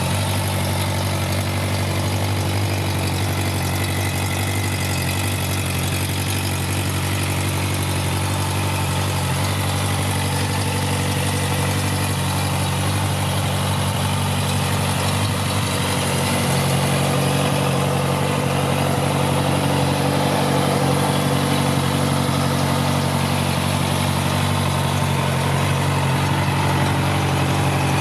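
2017 Honda CB650F's inline-four engine idling steadily, its note growing slightly louder a little past the middle.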